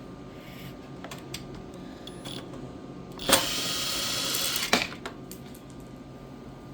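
Cordless electric impact driver running for about a second and a half, loosening a valve-cover bolt on a Predator 212 engine, then stopping with a click.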